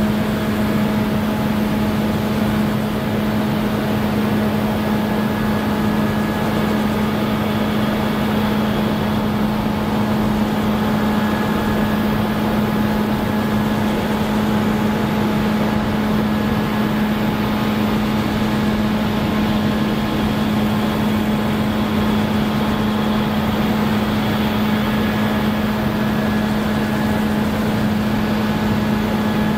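Claas Lexion combine harvester running under load while harvesting rye: a steady engine and machinery hum at an even pitch, with a few fainter higher steady whines above it.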